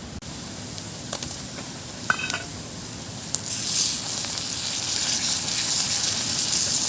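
Spice paste frying in hot oil in a pan with a low sizzle and a few light clicks of a utensil; about three and a half seconds in, chopped tomatoes go into the pan and the sizzling gets much louder.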